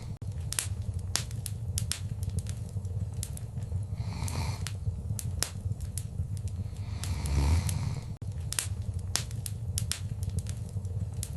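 Wood fire in a fireplace crackling, with sharp pops at irregular moments over a steady low rumble of the flames. The rumble and hiss swell briefly twice, about four and seven seconds in.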